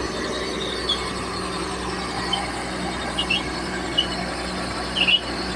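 Komatsu D31P bulldozer's diesel engine running steadily during a power test, with a few brief high squeaks scattered through, the loudest about five seconds in.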